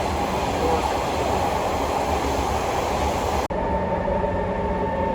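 Metro train running noise, a dense, even rumble. About three and a half seconds in it cuts off abruptly and gives way to a steadier sound with several held tones.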